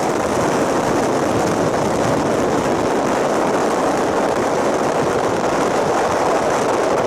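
Strong mountain wind blowing over the camera's microphone: a loud, steady rushing.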